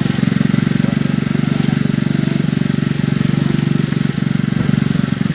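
Fishing boat's engine running steadily, a fast, even throb.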